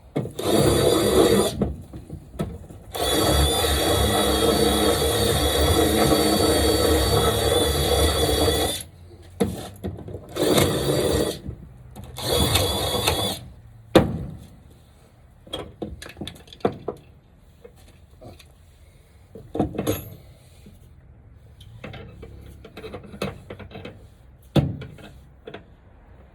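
Power drill run in several bursts, the longest about six seconds, with shorter runs before and after it. Then scattered light knocks and clicks.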